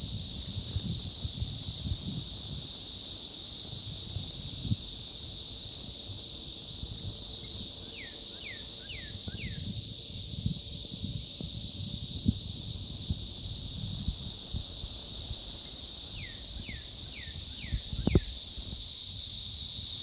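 A dense chorus of emerging cicadas, a steady unbroken high drone. Twice, a short series of four or five quick falling chirps cuts in over it.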